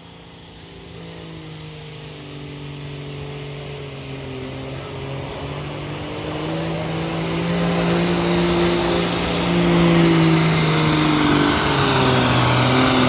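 Pulling tractor's engine running hard under load while it drags the weight sled down the track, its pitch wavering and its sound growing steadily louder through the run.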